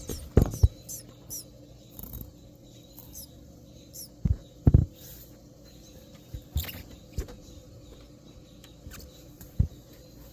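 Scattered knocks and scrapes of a phone being handled and lowered into a narrow space, the loudest coming about half a second in, twice around four to five seconds in, and near the end, with a few faint, short, high cheeps from baby birds in between.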